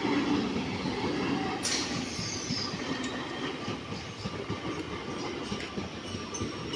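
Local passenger train rolling slowly past, its wheels rumbling and clacking over the rail joints, with a brief high hiss about two seconds in.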